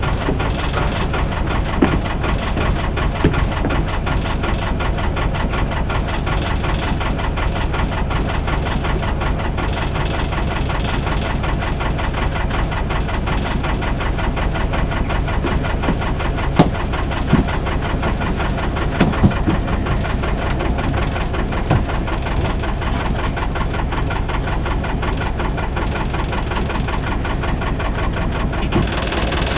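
Albin 2D marine engine running steadily with an even, rhythmic firing beat. A few brief knocks sound about halfway through.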